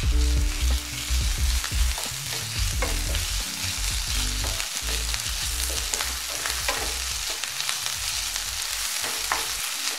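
Ginger-garlic paste and chopped onion sizzling in hot oil in a nonstick frying pan, stirred with a wooden spatula that scrapes and knocks against the pan now and then.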